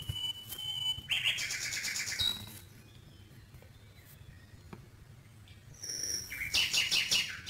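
Birds chirping: short high whistles and two bursts of rapid, high twittering, one about a second in and one near the end. A soft click of the cardboard puzzle sheet being handled comes right at the start.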